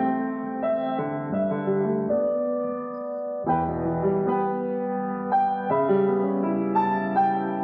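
Solo piano playing a slow, gentle piece: melody notes over changing chords, with one chord held for about a second and a half before a new one is struck about three and a half seconds in.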